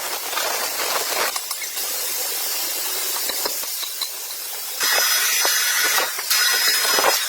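Sawmill saw cutting through a red rosewood log: a steady, loud hissing rasp with a faint high whine, changing abruptly several times.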